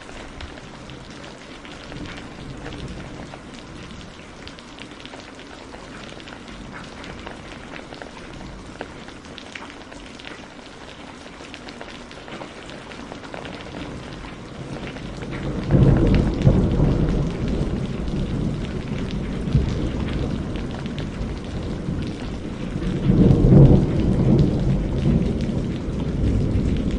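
Steady rain with two rolls of thunder, the first swelling in just past the middle and a louder second one a few seconds later.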